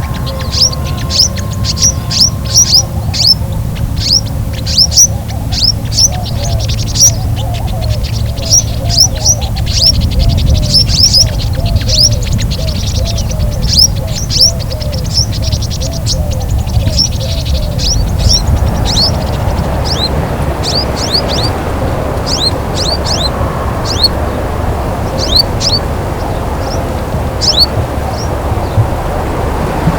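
Small songbirds giving short, sharp high chirps, several a second at first and sparser after about eighteen seconds, over a steady low background rumble.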